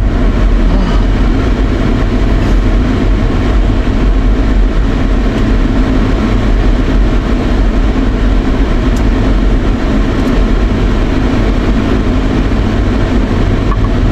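Car air-conditioning blower on high, a steady rush of air, over the low rumble of road and engine noise inside a moving car's cabin.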